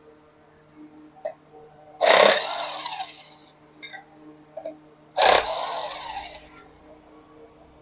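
Two short bursts of a power tool, one about two seconds in and one about five seconds in, each starting sharply and fading out over about a second and a half, with a few light clicks of parts between them.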